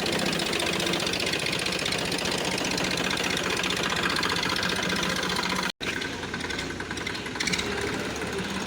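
Diesel tractor engine running steadily with a rapid pulsing beat. The sound cuts out for an instant about two-thirds of the way through, then carries on a little quieter.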